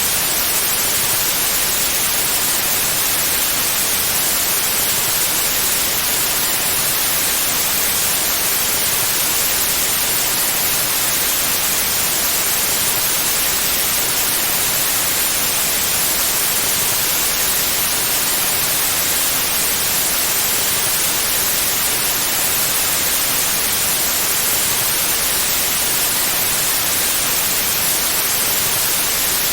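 Steady white noise: an even, unchanging hiss, brighter toward the top.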